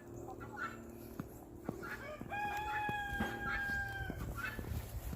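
A rooster crowing: one long, level-pitched crow that starts about two seconds in and lasts nearly two seconds, with short clucks from chickens around it.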